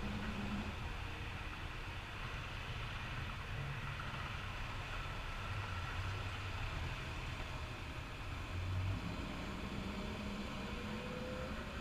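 Caterpillar 420F backhoe loader's diesel engine running, a steady low rumble that shifts slightly in pitch, with a faint whine rising near the end.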